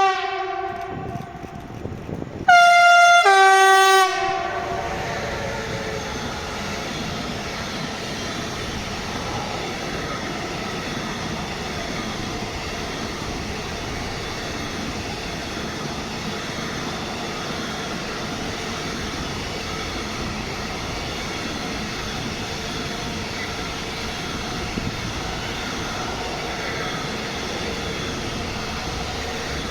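Train sounding its horn twice, a short blast that fades, then a louder one about two and a half seconds in, followed by the steady noise of the train running past.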